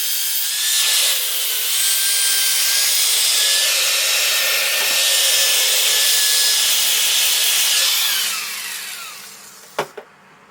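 Power grinder working on a steel exhaust pipe: a loud hissing grind over a steady, slightly wavering motor whine. About eight seconds in it is switched off and the whine falls away as it spins down, followed by a couple of sharp clicks near the end.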